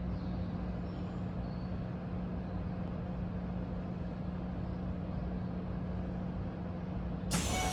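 Steady hum of a Hokuso Railway 7500 series electric train standing at a platform with its doors open, heard inside the passenger car: a constant low tone over a rumble. Near the end the sound changes suddenly and several higher tones come in.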